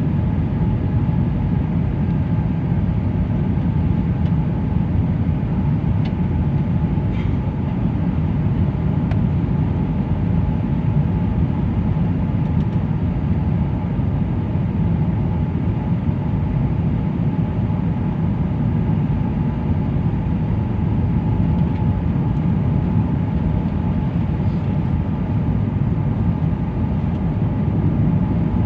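Steady, loud rumble inside a jet airliner's cabin during landing, with a faint steady whine above it.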